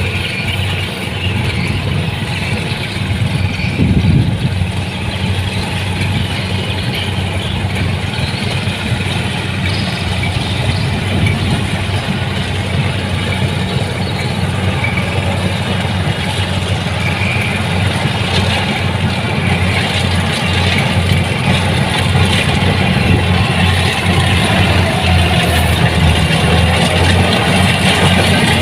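Kubota DC-70 Plus combine harvester's diesel engine running steadily under harvesting work, with a brief louder swell about four seconds in.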